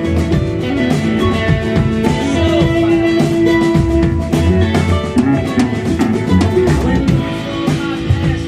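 Live band playing an instrumental passage: drum kit with electric and acoustic guitars, with sustained notes over a steady beat.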